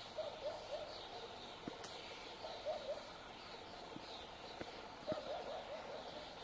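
Woodland birds calling, with clusters of short, repeated low chirps and higher, thinner calls over them, and a few faint ticks.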